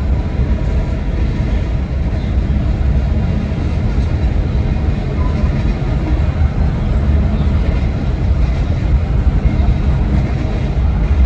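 Freight train rolling past, a steady low rumble with no breaks.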